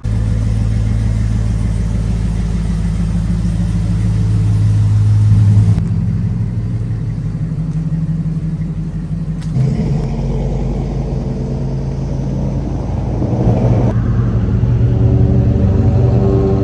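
Chevy Tahoe's V8 running and driving, a steady low exhaust rumble with some revving. The sound changes abruptly at cuts about six, ten and fourteen seconds in.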